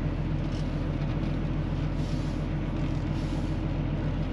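Semi truck's diesel engine running steadily at a low, even drone while the rig is manoeuvred in the trailer lot.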